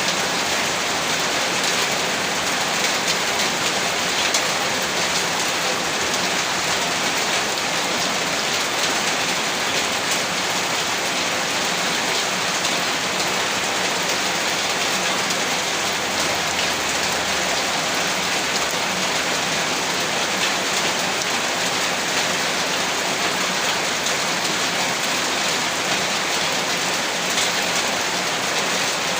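Heavy rain falling steadily on a rooftop: a dense, even hiss with faint sharp drop hits scattered through it.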